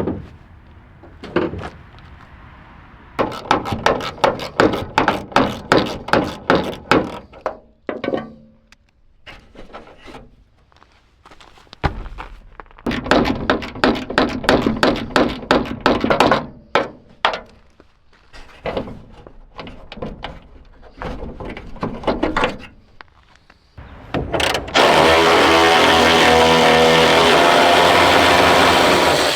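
Hand and power tools at work on an old truck: two runs of quick knocks and rattling blows with single knocks in between, then a power tool runs steadily for about five seconds and cuts off sharply near the end.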